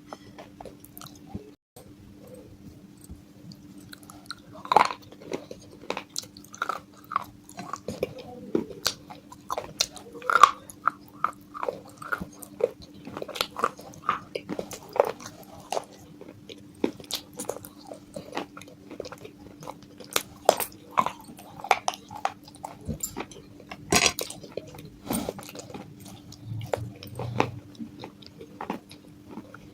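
Close-up biting and chewing of broken pieces of baked clay pot: sharp, irregular crunches, loudest at about five, ten and twenty-four seconds in.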